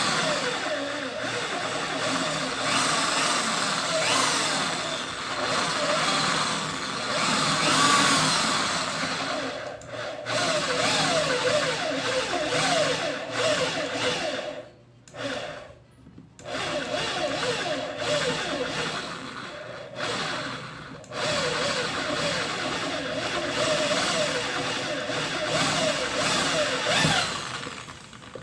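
Mini drill press motor running and drilling small holes through metal, stopping briefly a couple of times about halfway.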